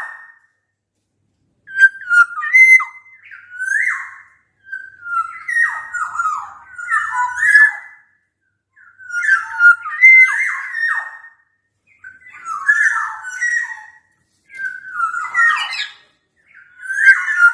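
Black-naped oriole singing in full voice: a string of loud, fluting whistled phrases, each a second or two long with short pauses between, delivered as a challenge to a rival.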